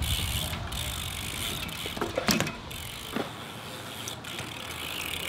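BMX bike riding on skatepark concrete: steady tyre and hub noise, with a few short knocks about two to three seconds in.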